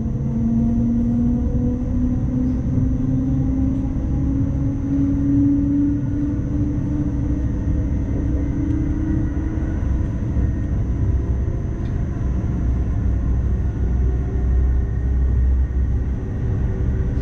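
ICMm (Koploper) electric multiple unit running on the rails, heard from the driver's cab: a steady low rumble of the running gear, with a whine that rises slowly in pitch over about ten seconds and then fades. A faint steady high tone sits over it throughout.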